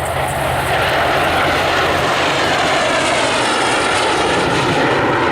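Loud, steady jet noise from a Lockheed T-33 jet trainer's single turbojet engine as it flies its aerobatic display, swelling slightly in the first moment and then holding.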